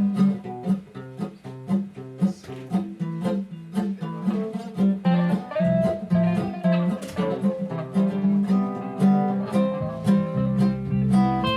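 Instrumental song intro led by acoustic guitar, plucked notes in a quick steady run over a bass line.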